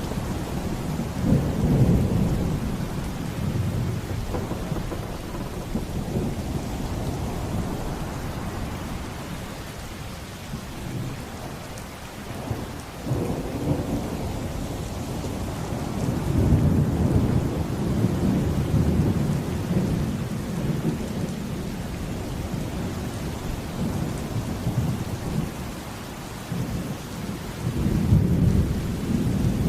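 Thunderstorm: steady heavy rain with deep rolling thunder. The thunder swells about two seconds in, builds again for several seconds from about halfway, and peaks once more near the end.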